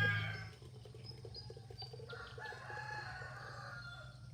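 Roosters crowing: a loud crow ends about half a second in, then a fainter crow is drawn out from about two seconds in, with short high chirps of chicks between.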